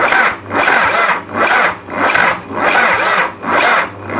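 Starter motor slowly cranking a Mazda diesel engine in cold weather, in a rhythmic rasping pulse about twice a second as each cylinder comes up on compression, without the engine firing. The slow cranking is the sign of a weak battery.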